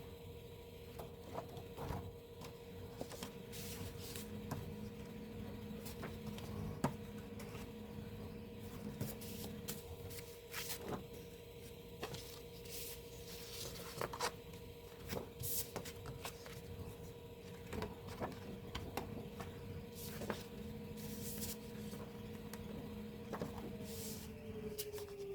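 Irregular rustling and light clicking of paper and plastic album contents being handled, over a steady faint hum.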